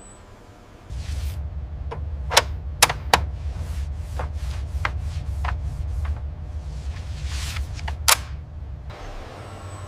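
A low, steady rumble that starts about a second in, with a handful of sharp clicks and knocks and soft hissing swells over it.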